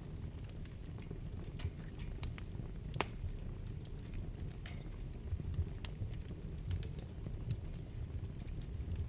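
Wood fire burning in a fireplace, with a steady low rumble and scattered sharp crackles and pops, the loudest pop about three seconds in.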